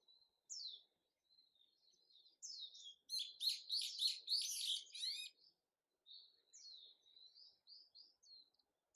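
Small songbirds chirping with quick high-pitched notes, and a louder run of rapid repeated notes about three seconds in, lasting around two seconds.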